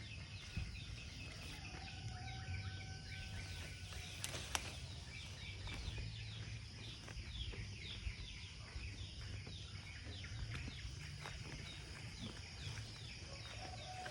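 Rural outdoor ambience: many short, high, falling chirps repeat throughout over a steady low hum, with a single sharp click about four and a half seconds in.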